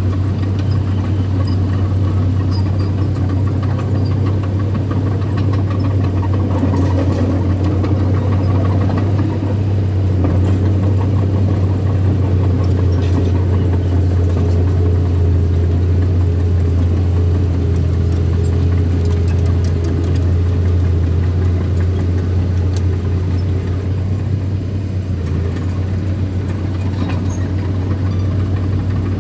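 Earthmoving machine's engine running steadily, with a deep, constant drone.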